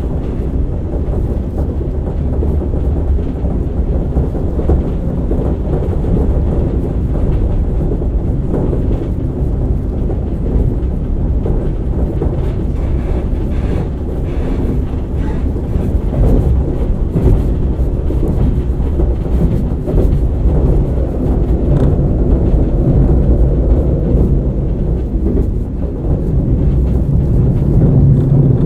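Cabin running sound of a KiHa 47 diesel railcar under way: steady low rumble of the diesel engine and wheels on rail, heard muffled from inside a pocket. It grows louder near the end.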